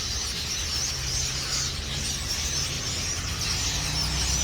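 A large flock of birds calling together in their roost trees: a dense high chatter of many overlapping chirps, over a low steady hum.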